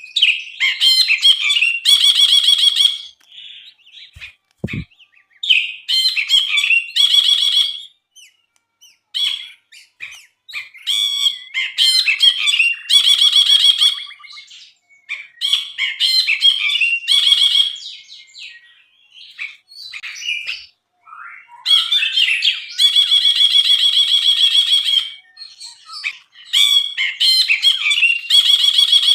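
Brinji bulbul singing in repeated loud phrases of fast, rattling trills, each a second or two long with short pauses between, including one longer trill past the middle; a brief soft low thump about five seconds in.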